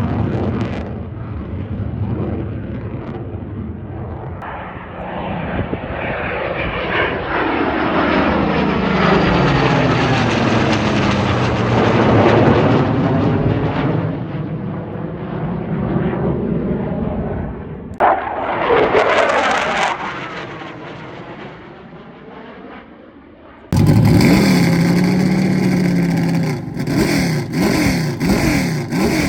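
An airplane making a low pass: its engine noise swells, peaks and fades with a sweeping pitch. About 18 s in, a second, faster pass comes in suddenly and dies away. Near the end it cuts abruptly to a different engine, running with an unsteady, wavering pitch.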